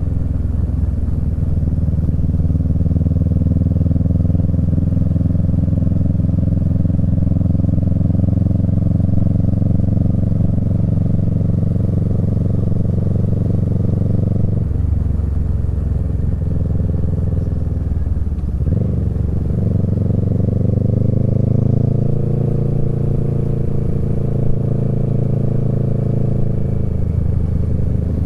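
Kawasaki Z650's parallel-twin engine through a Yoshimura Alpha exhaust, heard from the rider's seat while riding at steady throttle. The engine note breaks and drops about halfway through and again a few seconds later, then climbs back, as with gear changes or throttle roll-offs.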